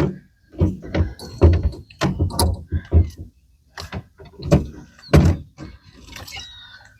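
Irregular hollow thumps and knocks against the boat, about a dozen of them, as a striped bass is netted and brought aboard.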